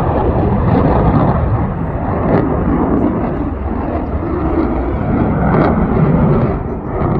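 Aircraft engine noise from a plane flying by: a loud, steady rushing sound that swells and eases slightly.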